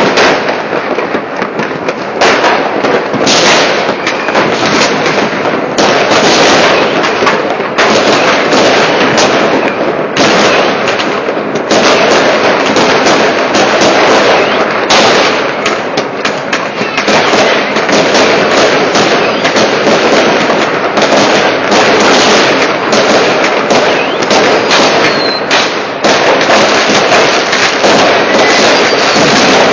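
Many fireworks and firecrackers going off at once, loud: a dense, unbroken crackle of bangs and pops.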